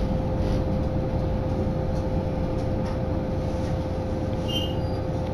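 Diesel train running steadily, heard from inside the carriage: a continuous low rumble with a steady hum.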